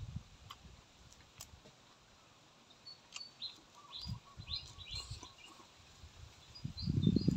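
Small birds chirping in the background, with a run of short high calls in the middle. Near the end, loud close chewing of a mouthful of raw greens starts.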